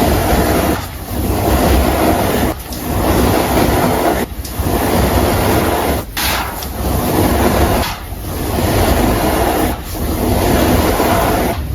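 Baking soda powder being crushed and squeezed by hand: a gritty crunching in repeated strokes, each about two seconds long with a brief break between them.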